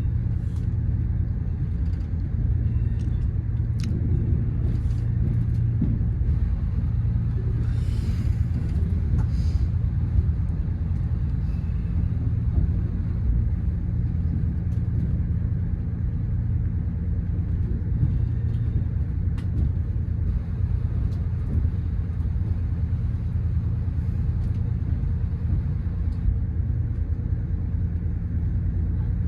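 Diesel passenger train's engine running with a steady low rumble, while the train arrives at or stands in the station. There is a short hiss about eight seconds in and a few light clicks.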